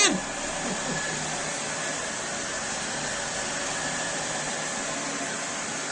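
Sebo Felix upright vacuum cleaner running steadily, a constant whooshing hum with a faint high whine.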